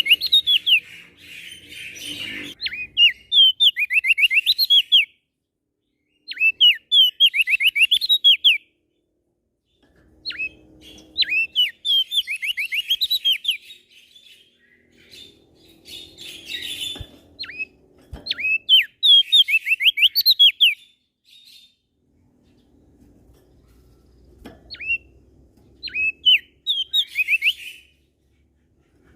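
Small songbird singing repeated phrases of quick, sharply sweeping high notes, each phrase a few seconds long with short silences between.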